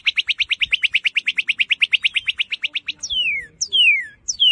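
Northern cardinal singing: a fast trill of rapid repeated notes, about a dozen a second, breaking after about three seconds into loud whistles that each slur sharply downward.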